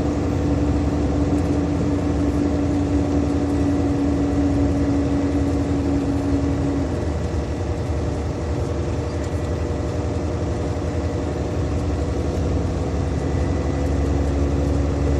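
A heavily loaded big truck's engine and road noise as a steady low drone, heard from inside the cab. A steady hum in it stops about seven seconds in.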